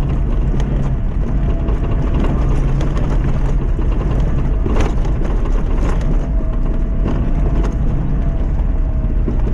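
Lifted Mazda MX-5's engine running steadily under load off-road, with knocks and clatters as the car jolts over rough ground, the sharpest about five seconds in.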